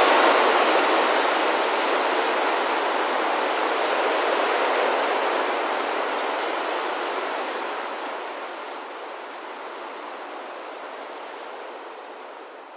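Steady rushing whoosh of a starling murmuration, thousands of wingbeats blending into one sound like running water, fading out gradually over the second half.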